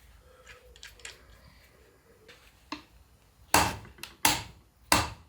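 Work with hand tools on a Land Rover Series gearbox: a few faint clicks, then five sharp metallic knocks with a short ring, about two-thirds of a second apart, in the second half.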